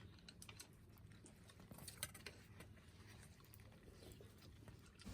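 Near silence: quiet room tone with faint, scattered small clicks and taps.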